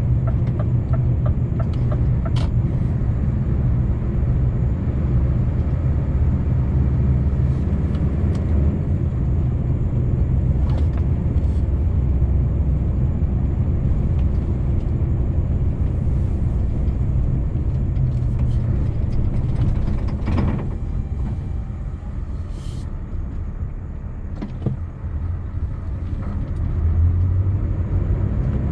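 Scania V8 truck on the move: a steady low engine and road rumble that eases off about twenty-two seconds in and pulls up again near the end. A short run of evenly spaced ticks sounds at the start.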